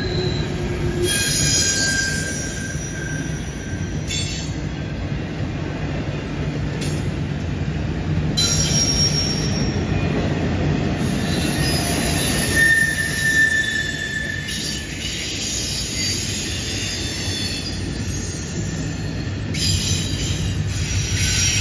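Freight train of double-stack intermodal well cars rolling past: a steady rumble of steel wheels on rail, with high-pitched wheel squeal coming and going as the wheel flanges rub the rail on the curve.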